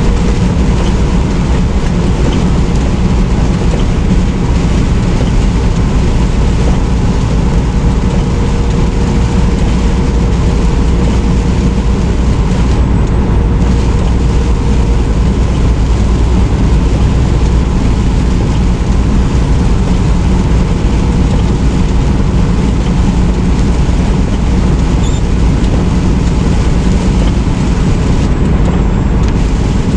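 Semi truck driving at steady speed: constant engine drone and road noise with a faint steady hum, no change in speed.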